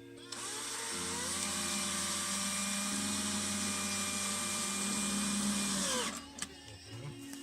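Electric drill running for about six seconds: its motor pitch rises as it spins up and falls as it winds down near the end.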